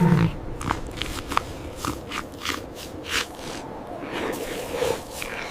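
Irregular crunching and scraping sounds, a few a second at uneven spacing, over a faint hiss.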